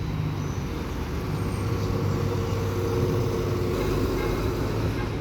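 Bus running at the stop with a steady low engine hum and a steady mid-pitched tone that grows a little louder midway.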